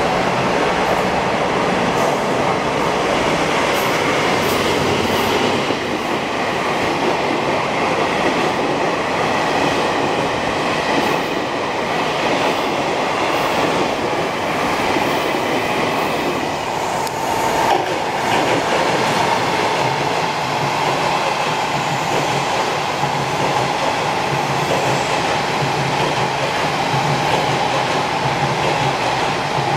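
A train passing close by: continuous wheel-on-rail noise for the whole stretch, with a steady whine joining a little over halfway through.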